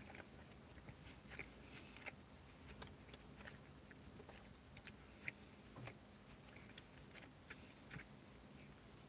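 Faint chewing of a mouthful of burger, with small wet mouth clicks and smacks scattered through it.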